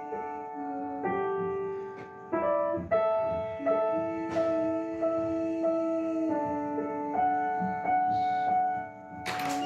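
Piano playing slow, held notes and chords that change every second or so, with a short sharp noise just before the end.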